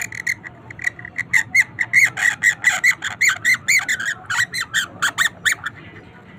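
A bird calling in a rapid run of short, high chirps, about five or six a second, growing louder about a second in and stopping shortly before the end.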